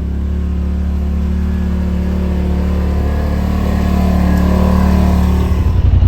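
Side-by-side UTV engine running steadily, slowly growing louder, with its note changing to a low pulsing sound near the end.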